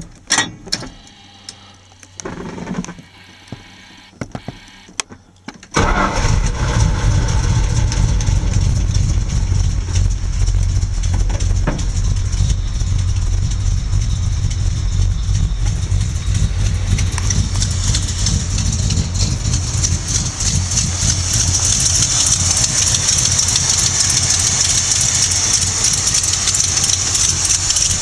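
Dodge W150 pickup's engine started cold after sitting a week, catching on the first crank about six seconds in and then idling steadily. A few scattered clicks and knocks come before it fires.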